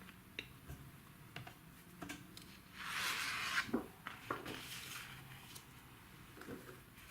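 Sheets of drawing paper being handled: scattered light taps and clicks, with about a second of rustling roughly three seconds in.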